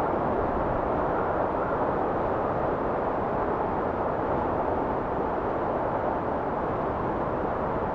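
Steady blizzard wind: a dense, even rush of noise, mostly low and middle in pitch with little hiss above, holding at a constant level without gusts.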